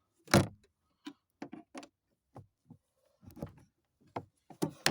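Battery jumper clamps clicking and knocking as they are clipped onto the car battery's terminals: one sharp knock just after the start, then a string of lighter clicks.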